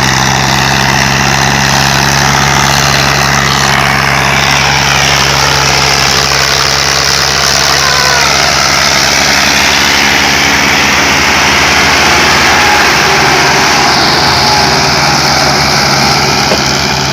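Tractor diesel engine running steadily and loudly at a constant speed, its pitch shifting slightly about two-thirds of the way through.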